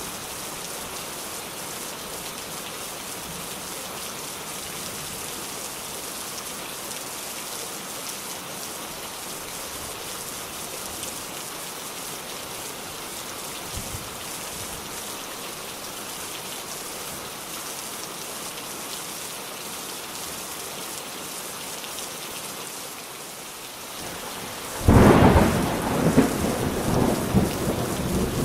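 Steady rain falling, then about three-quarters of the way through a sudden loud clap of thunder that rumbles on to the end.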